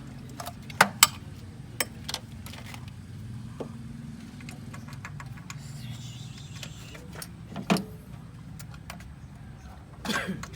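A car engine running steadily, with a handful of sharp metallic clicks and knocks on top, the loudest pair about a second in and another cluster near the end.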